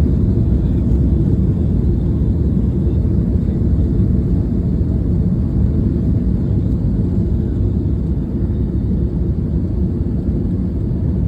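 Boeing 757 cabin noise: a steady low rumble of the airliner rolling on the runway just after touchdown, easing slightly in the last few seconds as it slows.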